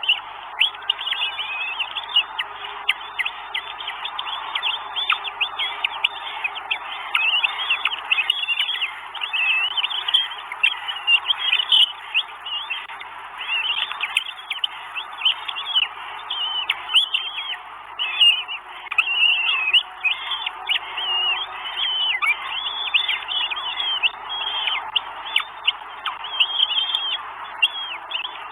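Birds chirping continuously, many short, quick, rising and falling calls overlapping with hardly a break.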